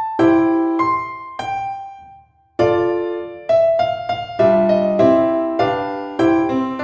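Background piano music: notes and chords struck and left to fade, with a brief pause about two and a half seconds in.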